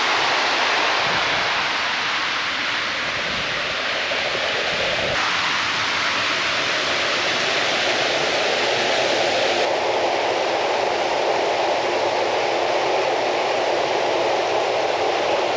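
Steady rush of a fast-flowing creek in high water. The sound shifts abruptly twice, about five seconds in and again near ten seconds.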